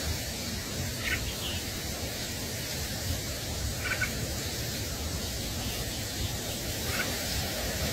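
Steady hiss with a few short, high bird chirps, about one, four and seven seconds in.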